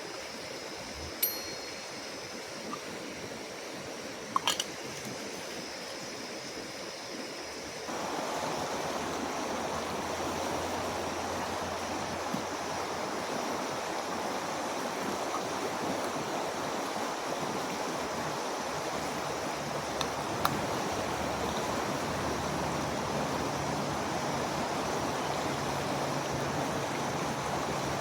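Rushing water of a swollen creek, a steady noise that gets louder about a quarter of the way in, with a few faint clicks.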